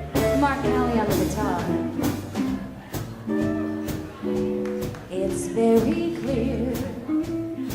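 Live swing band playing a slow ballad, with a woman singing over the band's sustained chords and bass.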